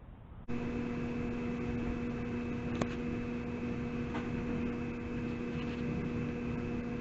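A steady mechanical hum, one constant low tone with a second tone an octave above, over an even noise, starting abruptly about half a second in; a couple of faint clicks stand out partway through.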